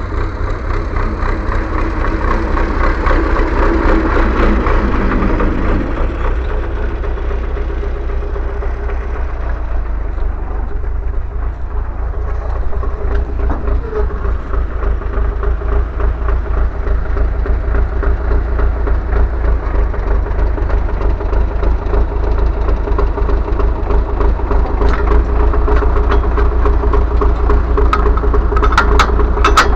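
A motor vehicle's engine running steadily while driving, with a constant low rumble and a few sharp knocks near the end.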